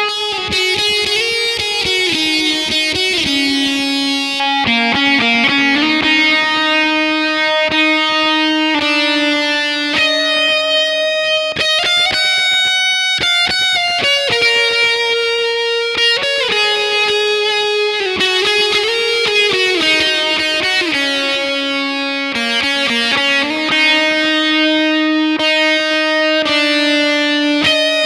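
Electric guitar through a fuzz pedal with delay, playing a solo of long, sustained single notes with several pitch bends. The same phrase comes round again about halfway through.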